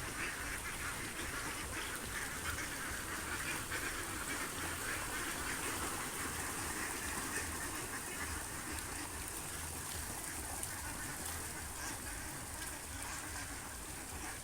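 Domestic ducks and geese calling together, a continuous jumble of quacks with honks among them.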